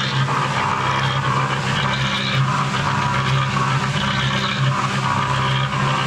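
Homemade concrete mixer running loaded with wet sand-and-cement mix: a steady motor hum under the gritty churning of the mix tumbling in the drum, which swells and fades every couple of seconds as the drum turns.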